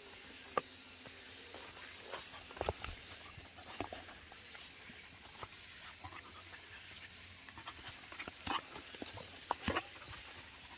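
A dog moving about close by: scattered light clicks and knocks, a few at a time, over a steady high hiss.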